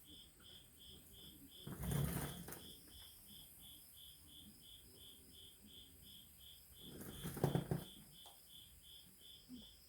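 A cricket chirping steadily, about two high chirps a second, with two short bursts of handling noise from the work, about two seconds in and, loudest, near the end.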